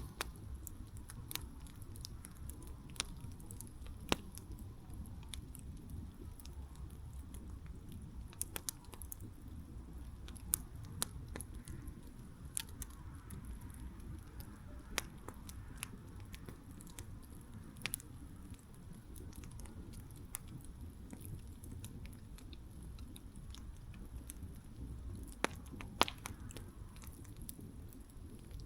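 Campfire burning: irregular sharp crackles and pops of burning wood over a steady low rumble of the flames, with a few louder pops scattered through.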